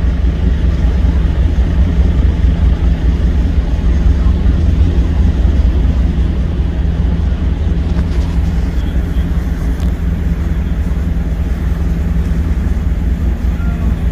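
A loud, steady low mechanical rumble with a constant drone, unchanging throughout.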